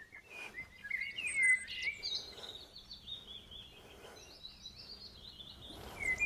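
Small birds chirping and twittering, many short quick calls over faint outdoor background noise.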